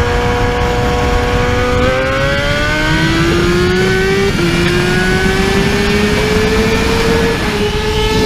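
Superbike engine accelerating hard, its note climbing steadily and dropping back at two upshifts, about four and seven seconds in.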